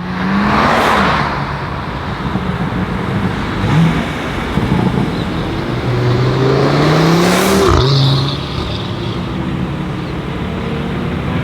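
Modified performance cars accelerating away, engines revving. One engine rises steadily in pitch for about two seconds and then drops sharply at a gear change about eight seconds in.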